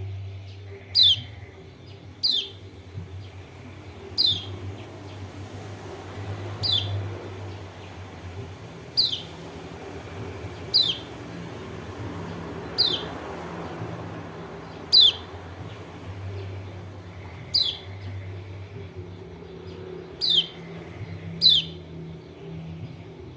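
Kecial kuning (pleci lombok) white-eye giving a repeated call, a short sharp note sweeping steeply down in pitch, about once every one to two seconds, over a faint steady low hum.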